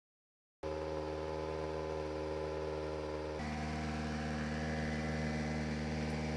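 Volkswagen Polo R WRC rally car's turbocharged four-cylinder engine idling steadily, starting about half a second in, its idle note shifting slightly about three seconds later.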